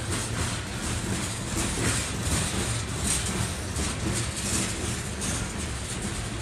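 Freight train cars rolling slowly past, their wheels giving a run of repeated clicks and rattles over a low rumble.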